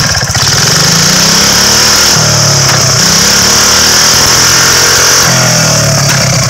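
5 hp Tecumseh single-cylinder engine of a homemade chopper motorbike running, its speed rising and falling twice as the throttle is worked.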